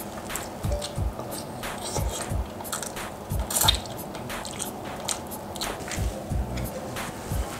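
Close-miked eating: biting and chewing a braised chicken wing, then a piece from a bowl of rice-noodle soup, with irregular clicks and crunches, the sharpest about three and a half seconds in.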